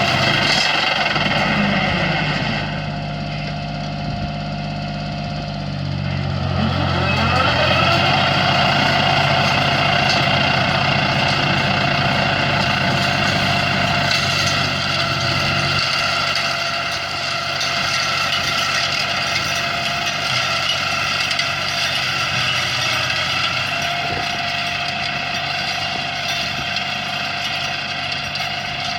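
A motor running steadily with a whine; its pitch rises about six seconds in and then holds at the higher pitch.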